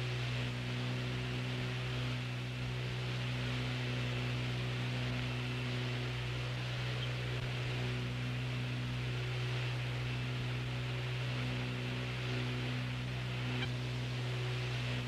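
Steady low electrical hum with a background hiss: the open radio and recording channel between transmissions, with no voices.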